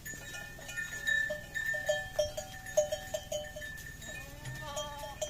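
Small bells on grazing sheep and goats clinking and ringing in short, scattered notes, with a faint animal call about four seconds in.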